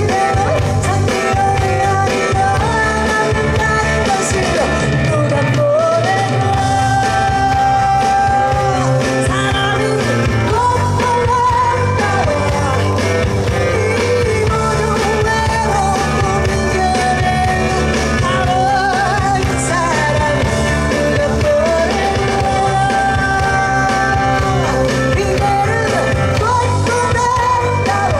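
A woman singing a Korean pop song over a full band, with long held melody notes above a steady bass line.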